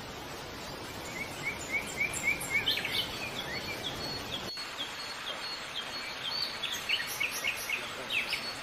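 A bird chirping over steady background hiss: first a quick run of short rising notes, then scattered varied chirps.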